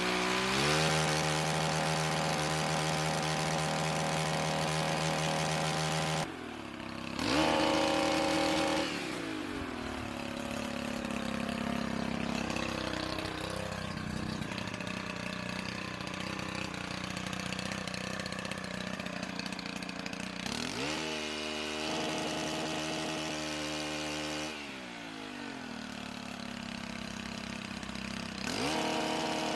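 Gas pole chainsaw's small engine running and revving: it holds high revs, drops off about six seconds in, then revs up and falls back to a lower speed several times over the stretch.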